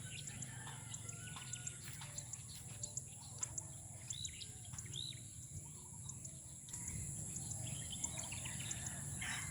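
Small birds chirping and calling, with short chirps and a few rising-and-falling calls, over a steady high hiss.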